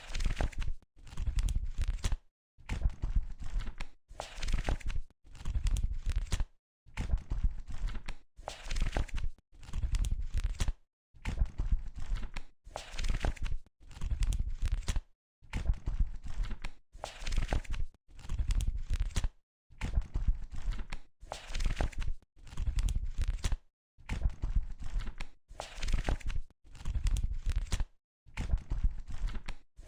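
Pages of a paper book being turned one after another, each flip a short papery rustle. The flips repeat evenly, roughly one every second and a half, with silence between them.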